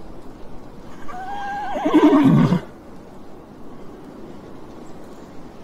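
Horse whinnying once, about a second in: a high quavering call that falls away to a low end, lasting about a second and a half.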